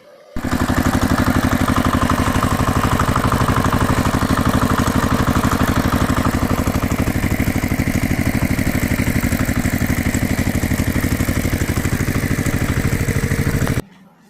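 Tractor engine running steadily with a fast, even chug. It starts abruptly about half a second in and cuts off near the end.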